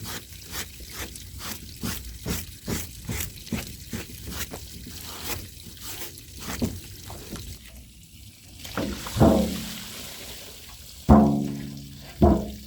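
Stiff hand brush scrubbing a wet, soapy rug in quick regular strokes, about two to three a second. Near the end the scrubbing stops, water pours, and three loud knocks that ring briefly follow.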